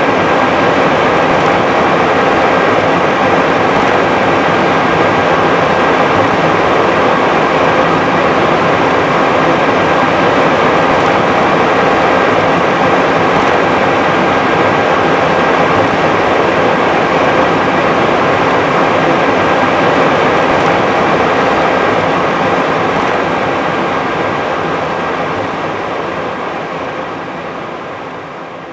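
Steady Airbus A320 flight-deck noise: an even rush of air and machinery with a faint steady whine running through it, fading out over the last several seconds.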